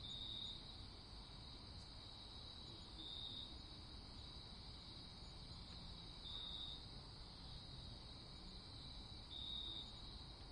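Crickets chirping: a steady high trill, with a louder pulse swelling about every three seconds, over a faint low rumble.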